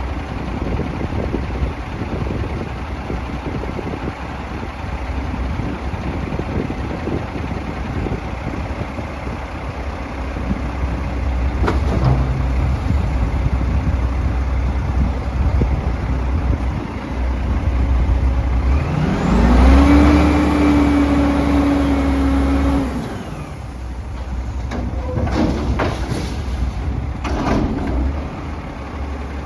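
Autocar Xpeditor garbage truck engine running, revving up with a rising whine about two-thirds of the way through, holding high for a few seconds, then dropping back. A few sharp clanks or hisses come near the end.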